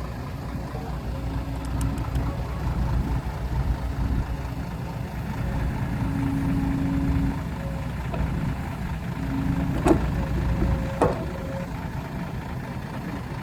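Heavy diesel dump truck engine running steadily, with a faint whine that comes and goes. Two sharp knocks sound about a second apart, about three quarters of the way through.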